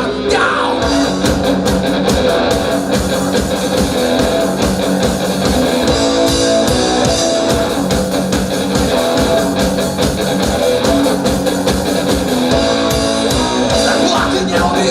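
Rock band playing an instrumental break: guitars over a steady drum beat.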